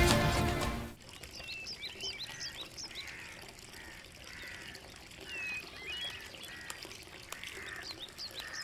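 Music stops about a second in, giving way to outdoor ambience with several birds chirping: many short, quick high calls over a softer call that repeats about once a second.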